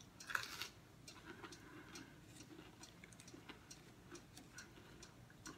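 Faint crunching and clicking of someone chewing breaded popcorn chicken, with a louder bite about half a second in and then small irregular clicks a few times a second.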